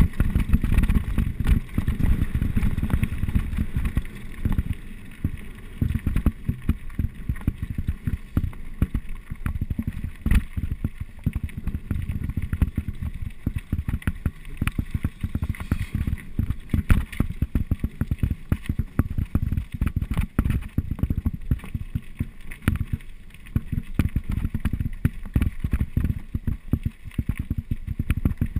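Mountain bike descending a rough trail: a steady jolting rumble with rapid, irregular rattling and knocking, and wind buffeting the microphone.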